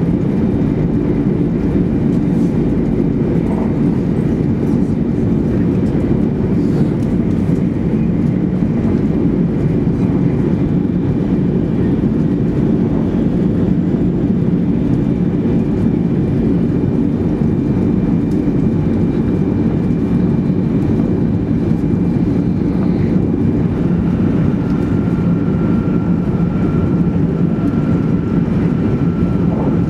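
Interior noise of a 200 series Shinkansen cruising at speed: a steady, dense low rumble of running gear and air. A faint steady whine joins in about six seconds before the end.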